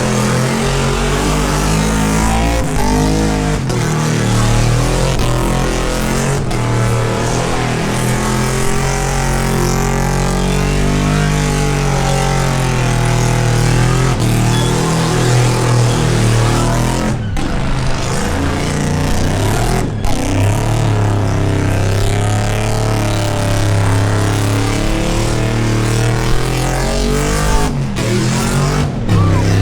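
V8 engine held at high revs in a burnout, its pitch wavering up and down throughout. The sound cuts out very briefly a few times in the second half.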